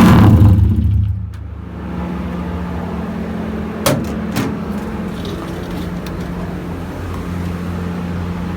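A motorcycle engine with an aftermarket exhaust on a dyno comes off a hard rev about a second in and settles to a steady idle. Two short knocks are heard about halfway through.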